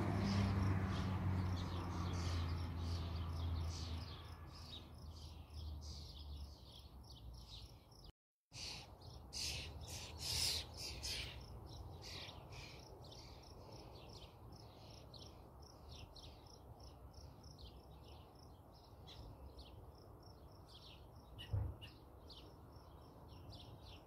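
Small birds chirping in quick, short, irregular notes, busiest about ten seconds in. A low steady hum, loudest at the start, fades out over the first few seconds, and the sound drops out for a moment about eight seconds in.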